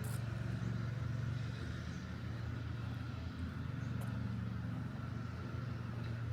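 A steady low mechanical hum, like an engine or generator running, throughout.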